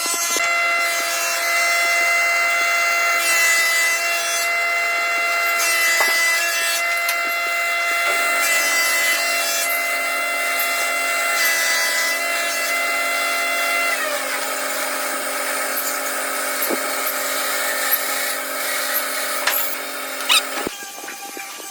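Electric woodworking power tool running with a steady high whine while cutting wood, with several spells of hissy cutting noise. Its pitch drops a little about two-thirds of the way through, and the motor cuts off near the end.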